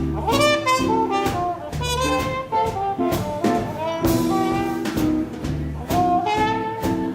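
A live swing band playing an instrumental passage in 1940s style: saxophone and brass over a drum kit keeping a steady beat.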